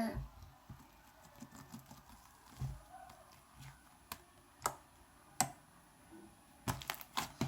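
Scattered light clicks and taps of small objects being handled, a handful of sharp ones in the second half, over quiet room tone.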